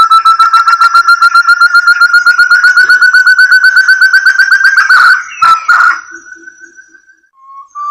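Recorded lure call of a forest quail (puyuh hutan): a long, rapid run of clear whistled notes that climbs slowly in pitch. About five seconds in it breaks with a couple of sharp clicks and trails off, and a new run begins near the end.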